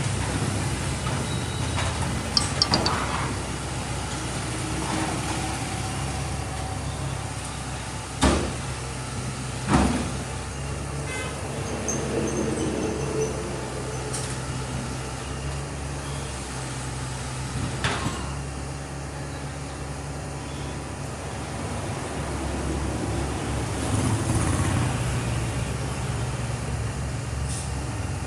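Heavy diesel engine of the truck or hydraulic excavator running steadily, with a few sharp knocks: a cluster a couple of seconds in, two more around eight and ten seconds, and one near the middle.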